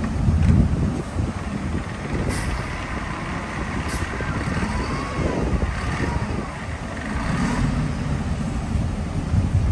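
Heavy diesel earthmoving machinery running with a steady low rumble, with two short sharp sounds about two and four seconds in.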